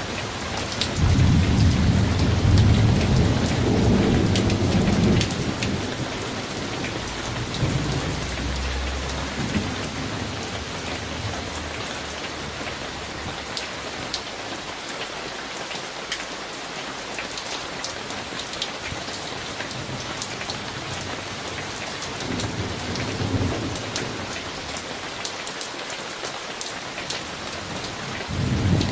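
Summer thunderstorm: steady rain falling, with a long rolling rumble of thunder starting about a second in and fading away over several seconds, then a fainter rumble later on.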